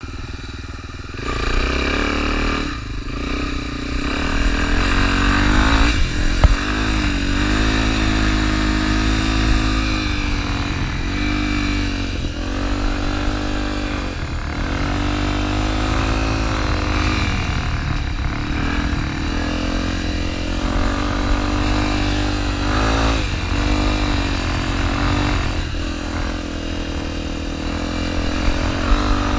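Honda XR250 Tornado motorcycle's single-cylinder four-stroke engine being ridden hard, its pitch rising and dropping again and again as the throttle is opened and eased off.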